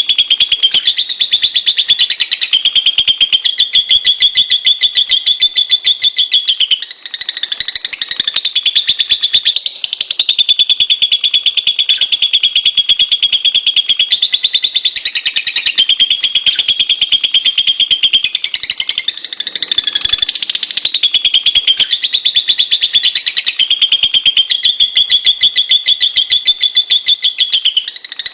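Lovebird chattering in one long, rapid, unbroken run of high-pitched notes that shifts slightly in pitch every few seconds.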